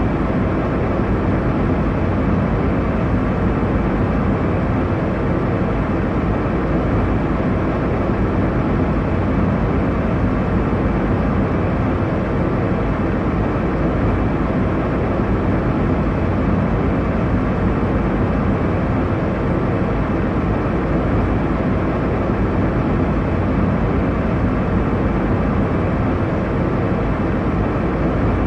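Airliner cabin noise: a steady, unchanging low rush of engine and airflow sound, heaviest in the low range.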